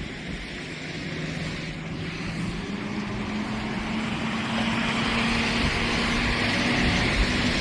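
A motor vehicle's engine hum growing steadily louder as it comes closer, with a hiss that swells alongside it. The hum's pitch steps up a little partway through.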